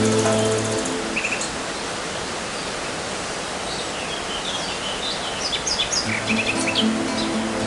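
Suuçtu waterfall in flood: a steady rush of heavy falling water. Birds chirp several times in the second half, and background music fades out about a second in and comes back near the end.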